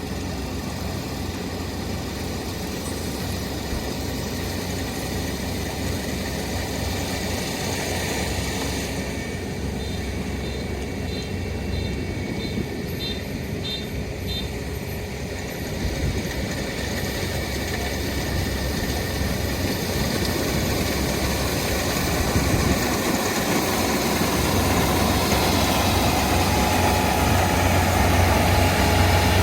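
Kubota ER470 combine harvester running steadily, its diesel engine drone growing gradually louder toward the end. A series of about eight short high beeps sounds in the middle.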